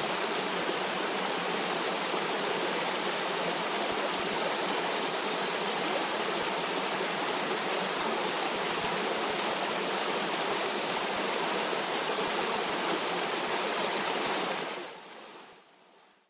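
Stream water rushing in a steady, even wash of noise, fading out near the end.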